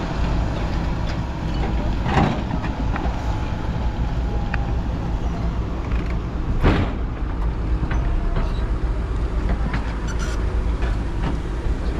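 Steady low rumble of vehicle engines, with two brief knocks, about two seconds in and again near seven seconds.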